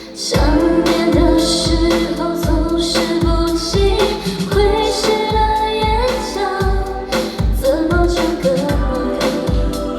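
Pop song with a female lead vocal over a steady kick-drum beat, about two beats a second; the full music comes in loudly just after the start.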